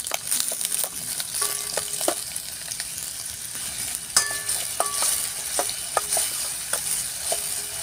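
Chopped aromatics sizzling in hot oil in a stainless steel pot, stirred with a metal ladle that scrapes and clinks against the pot's sides; each clink rings briefly, the loudest about four seconds in.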